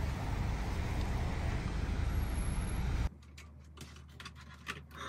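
Car engine idling, heard from inside the car as a steady low rumble. About three seconds in it cuts to a quiet room with a few soft clicks and light rustling as clothes are handled.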